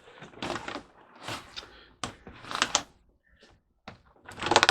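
Rustling and knocking of objects being handled, in four separate bursts, the loudest near the end.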